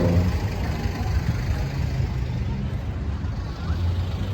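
Motor vehicle engine running in street traffic, a steady low hum.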